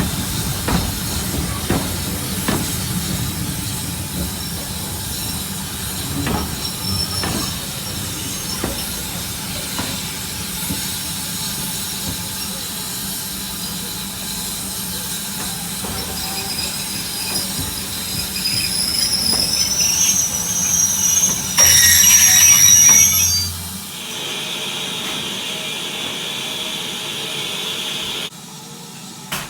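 A heritage train running on the rails: a steady rumble with clicks of the wheels over the rail joints. High wheel squeal builds from about halfway through, then a loud burst of hiss comes near the end before the sound cuts to a steadier hiss.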